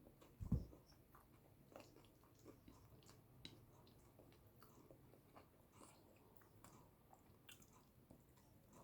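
Quiet, close-miked chewing of boiled yam with eggplant sauce: many soft, wet mouth clicks and smacks. A single low thump about half a second in.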